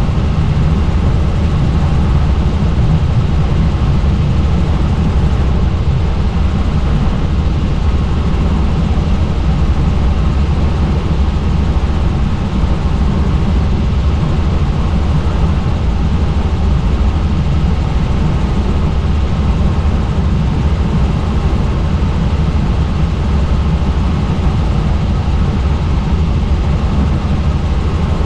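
Helicopter in steady flight heard from on board: a loud, unchanging drone of rotor and engine noise, heaviest in the low end.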